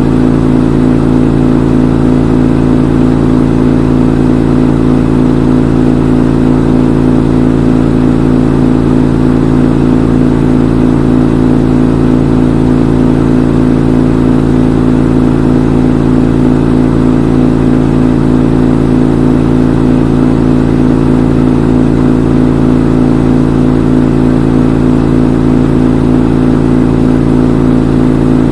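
Front-load washing machine in its spin cycle, the drum turning at a constant speed with a steady motor hum and whir that does not change.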